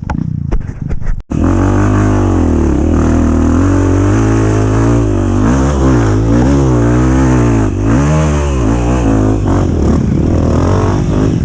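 Dirt bike engine revving hard and unevenly, its pitch rising and falling again and again, typical of a trail motorcycle working through mud. A few short knocks come just before the engine note starts about a second in.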